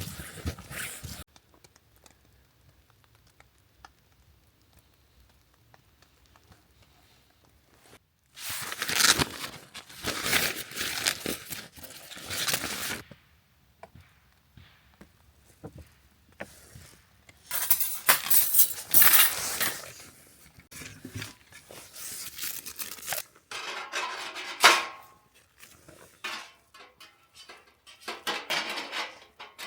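Intermittent clattering and clinking of metal parts with rustling and crinkling, as a new folding fire pit is unpacked and handled, in several bursts separated by near-silent pauses.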